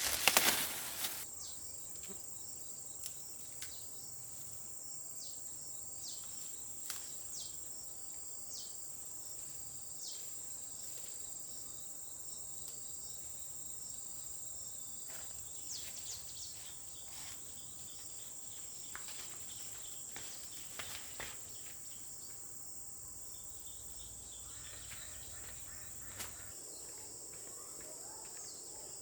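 Insects chirring in a steady high drone, with a loud rustle in the first second and scattered faint clicks and rustles.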